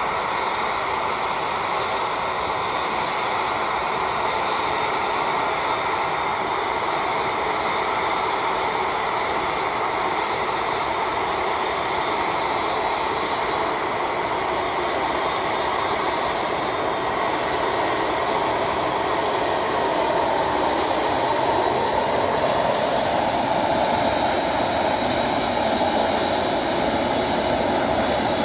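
Airbus A380's four jet engines running, a steady roar with a thin high whine, growing a little louder about two-thirds of the way through.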